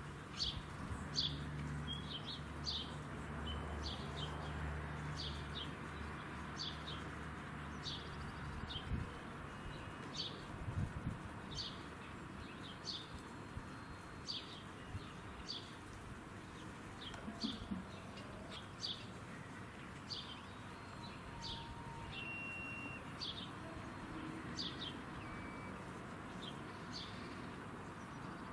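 A bird chirping over and over, one short high note a bit more than once a second. A low steady hum runs under it for the first eight seconds or so, then stops.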